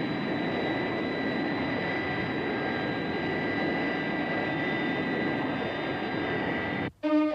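Sound effect of a jet aircraft's engines running steadily, with a high whine over the rushing noise. It cuts off suddenly near the end.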